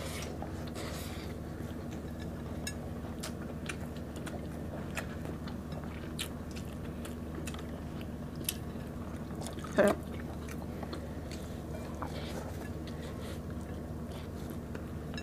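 Close-up chewing and biting as people eat rice and banana-blossom salad by hand, with scattered small clicks and crunches over a steady low hum. A short vocal sound breaks in about ten seconds in.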